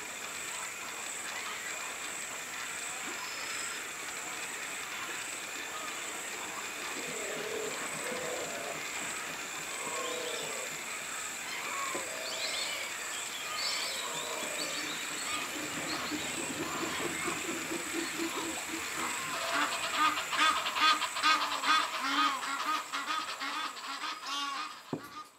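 Bird calls over a steady hiss: scattered short calls through the middle, then a loud, rapid series of repeated calls for about five seconds near the end.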